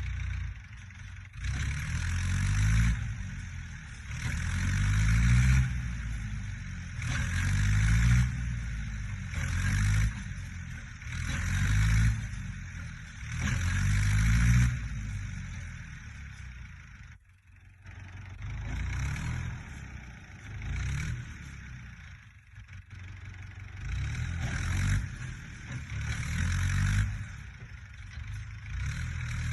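Fordson E27N tractor's Perkins P6 six-cylinder diesel, revved up and dropped back again and again every two to three seconds as it works. It falls away briefly a little past halfway, then resumes.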